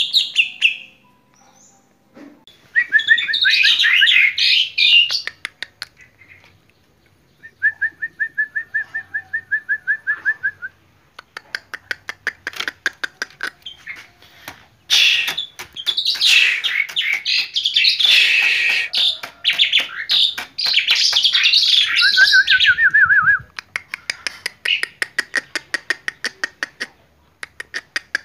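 Caged birds singing and chattering: loud bursts of varied, high whistled song mixed with long runs of fast, sharp chips. About a third of the way through comes one level, trilled whistle lasting about three seconds.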